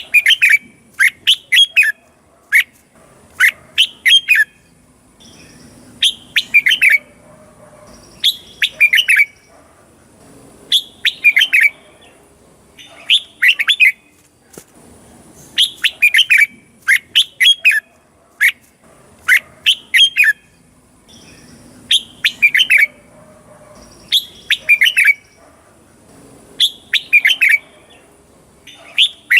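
Red-whiskered bulbul singing: short phrases of quick, chirpy notes, repeated about every two seconds.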